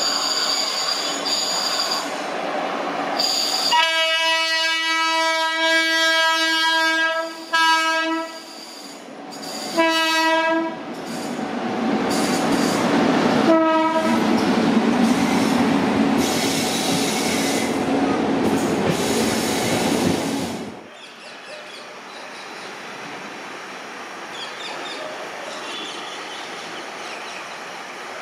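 Electric locomotive horn: one long blast, then two short ones, over the high squeal of wheels on a curve. A train's heavy running noise follows and cuts off suddenly about 21 seconds in, leaving a quieter steady background.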